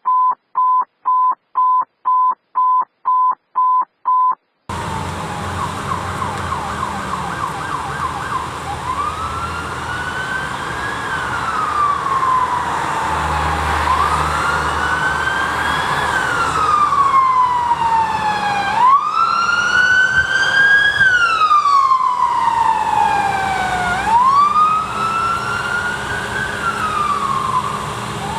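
About ten short, even electronic beeps at one pitch, two a second, for the first four seconds or so. Then a fire truck's siren starts with a brief fast yelp and settles into a slow wail, rising and falling about every five seconds, over the low rumble of the truck's engine.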